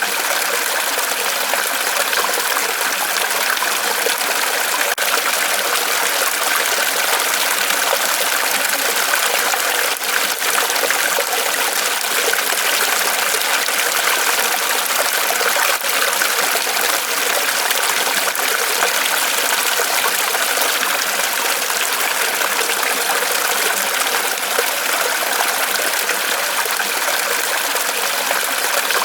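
Water trickling and splashing steadily in a small fall off a tree trunk, an even, unbroken rush of water.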